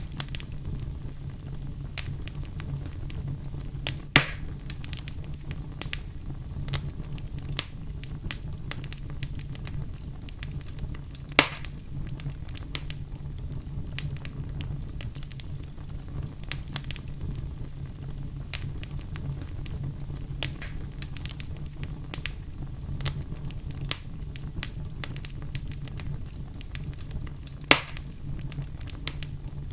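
Wood campfire burning, crackling with frequent small clicks and three louder pops: about four seconds in, around eleven seconds in, and near the end. A steady low rumble runs underneath.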